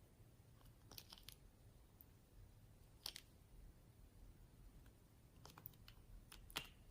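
Faint sticky clicks and pops of slime being pressed and stretched by hand. There are a handful, spread out, with the sharpest about three seconds in and near the end.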